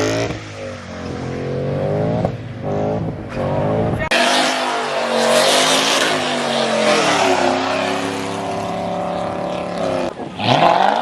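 A four-cylinder Ford Mustang doing a burnout: the engine revs up and down, then from about four seconds in it is held high while the rear tires spin and squeal. Near the end the revs rise again.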